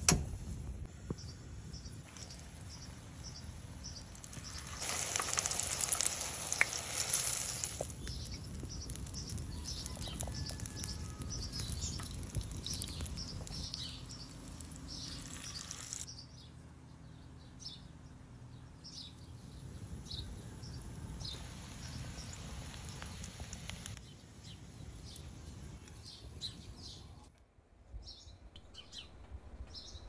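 Small birds chirping in short repeated calls over a low steady background hiss, with a louder crackling hiss from about five to eight seconds in.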